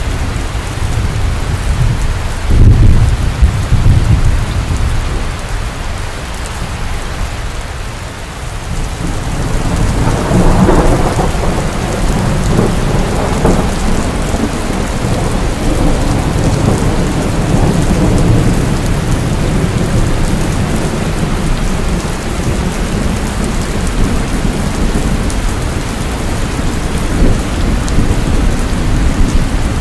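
Steady rain falling, with thunder: a sharp close crack about two and a half seconds in, then a long rolling rumble that swells from about nine seconds in and slowly dies away.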